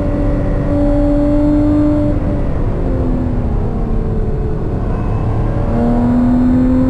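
Lotus sports car's engine heard from inside the cabin at speed, over road and tyre rumble. The engine note holds steady, drops about two and a half seconds in as the car slows for a bend, sags lower through the middle, then picks up again near the end as the driver gets back on the throttle.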